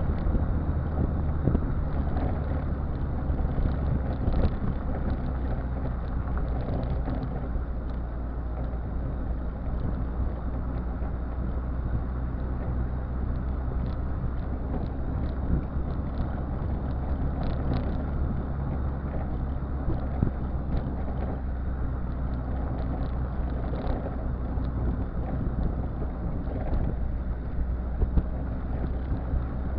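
Citroën Visa's swapped-in XUD7TE 1.7 L four-cylinder turbo diesel running at a steady engine speed, heard through its exhaust: an even low engine note that neither rises nor falls.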